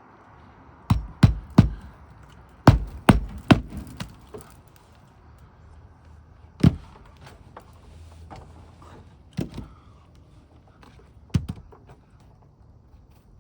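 A hammer driving roofing nails through an asphalt shingle into the roof deck: sharp strikes in short runs, three about a second in, a quick run of four or five around three seconds in, then single blows spaced out toward the end.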